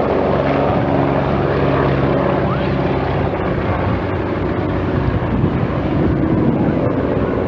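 Piston-engined propeller airplane running steadily in flight.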